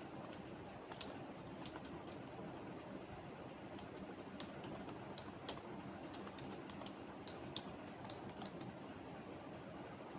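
Computer keyboard typing in irregular runs of keystrokes with short pauses, over a steady background hiss.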